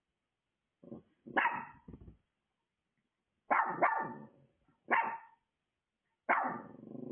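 A dog barking repeatedly, in short runs of one to three barks with pauses of a second or so between them.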